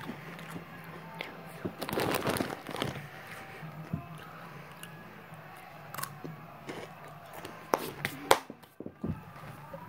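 Cheetos being bitten, crunched and chewed close to the microphone, with a dense burst of crunching about two seconds in and a few sharp clicks later on, over a low steady hum.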